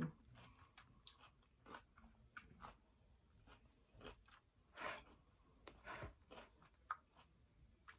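A person chewing a mouthful of pad thai with the mouth closed: faint, irregular soft mouth clicks and crunches.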